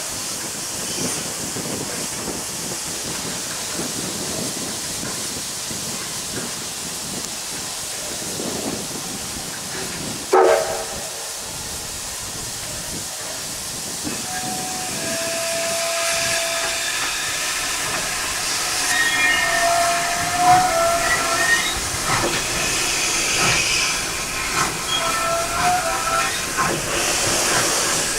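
Steam train hissing steadily. About ten seconds in a short, loud sliding tone sounds, and from about fourteen seconds on several high, wavering tones come and go over the hiss.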